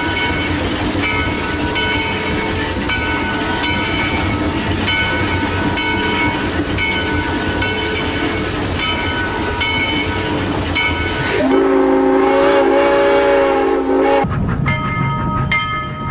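Train running with a steady rumble and a ringing clang about once a second. About eleven seconds in, a train horn sounds a held chord for about three seconds and cuts off. Near the end the sound changes to a different rumbling train recording.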